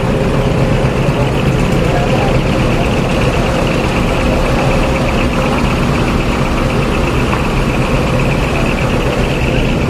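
Heavy diesel truck engine running steadily at idle, a continuous low rumble, with people's voices in the background.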